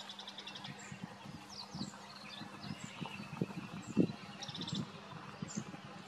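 Songbirds calling: a rapid trill at the very start and again about four and a half seconds in, with short high slurred notes between. A few low knocks are mixed in, the loudest about four seconds in.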